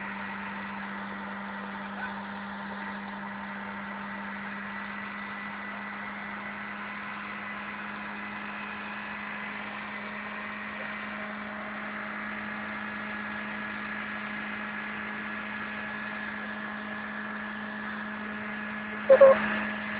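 Car engine idling, a steady unchanging hum with faint higher tones. A short loud sound cuts in near the end.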